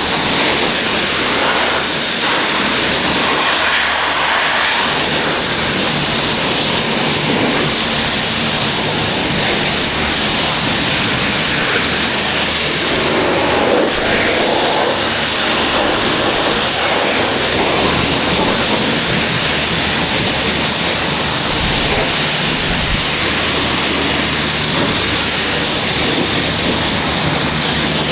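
High-pressure washer wand spraying water, a loud steady hiss with a low steady hum underneath.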